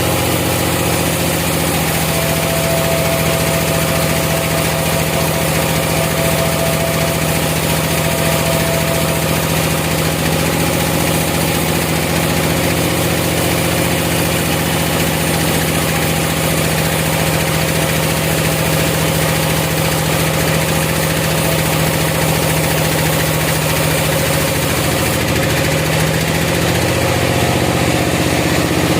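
Sawmill machinery running steadily, an engine or motor humming at a constant low pitch. About two seconds in, a higher whine sounds for several seconds.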